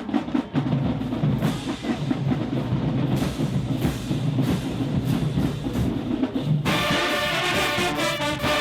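Marching band drumline playing a loud percussion cadence, with the full brass section coming in together about seven seconds in.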